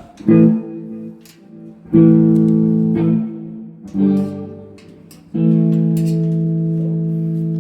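Guitar chords struck one at a time, each left to ring: four chords, the last held and sustaining, as a guitarist tries out his sound.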